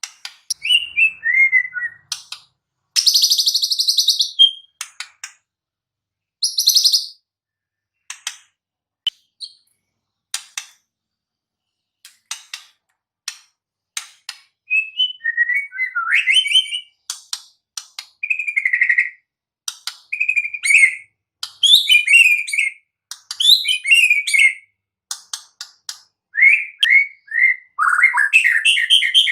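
White-rumped shama singing a varied song: sharp clicks, two harsh buzzy bursts, whistled gliding phrases, and a fast run of repeated notes near the end, with short pauses between phrases.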